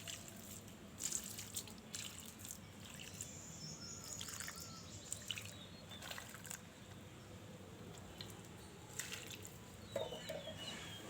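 Faint dripping and trickling of water in a series of irregular small ticks, with a few bird chirps near the end.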